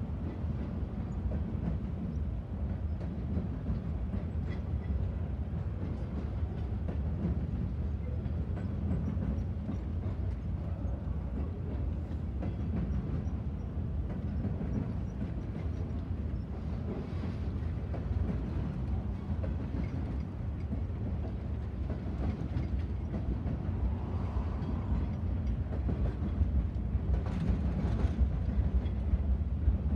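Freight train of flatcars rolling past, a steady low rumble of steel wheels on the rails that grows louder near the end.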